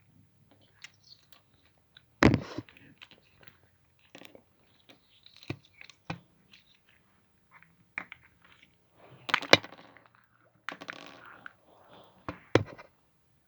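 Slime with Go stones mixed into it being kneaded and squeezed: irregular sharp clicks and short crackly squelches, the loudest about two seconds in and again near the middle.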